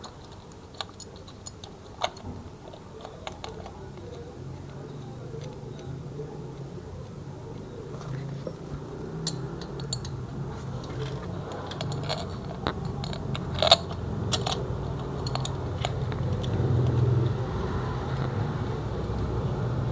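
Scattered light clicks and knocks of metal parts being handled as the motorcycle's oil filter cover and its screws are fitted back on, with one sharper knock a little past the middle. Underneath, a low steady hum grows louder from a few seconds in.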